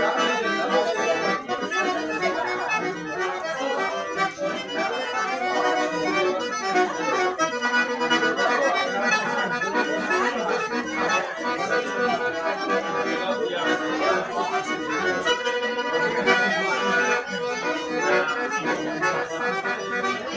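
Accordion music in a traditional style, playing without a break.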